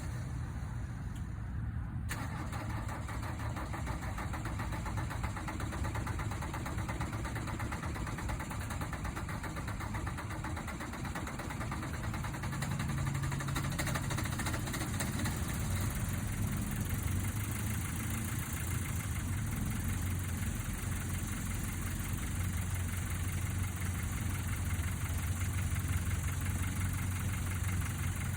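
1983 Mercedes-Benz 240D's four-cylinder diesel running at idle just after a cold start in 6 °F cold. The sound grows fuller and brighter about two seconds in, then runs steadily.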